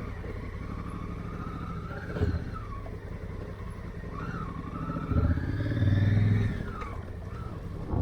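Honda Africa Twin motorcycle engine running as it is ridden, its pitch rising and falling with the throttle, louder for a second or so about five seconds in. A short knock comes about two seconds in and another near the end.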